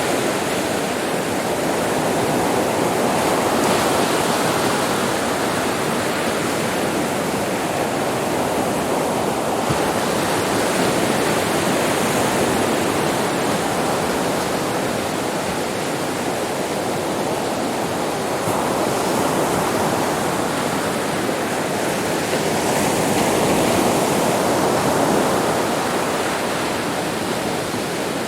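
Sea waves washing onto a beach in a continuous surf. It swells louder a few seconds in and again near the end, then eases back.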